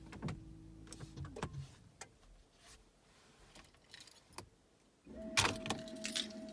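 Inside a 2004 Toyota Prius: a steady electrical hum dies away, followed by a scatter of clicks and light knocks. About five seconds in, a new hum with a steady whine switches on, with a few sharp clicks just after.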